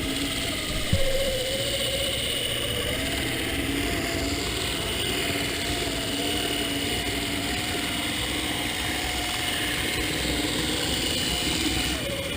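HO scale MDC Roundhouse Shay model locomotive running along the track, its motor and gear drivetrain giving a steady, loud whining whir. The gear noise persists even though the gears have been greased again and again.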